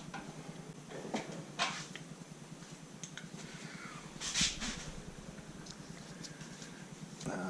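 A few light clicks and knocks of engine parts being handled and set down during a teardown, the strongest about four seconds in, over a steady low hum.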